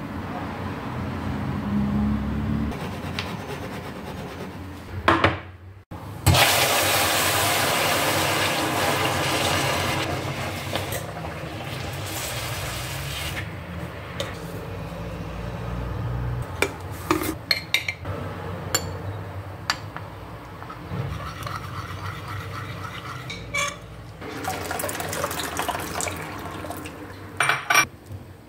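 Water running and pouring in stretches, with scattered short knocks.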